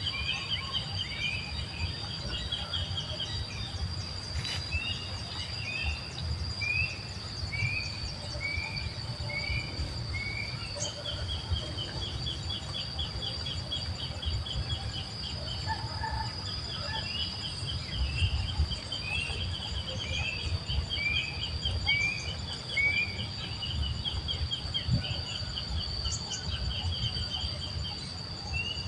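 Outdoor nature ambience: a steady, high insect drone, with a bird repeating short falling chirps about two a second, broken up by runs of fast trilled notes. A low rumble runs underneath.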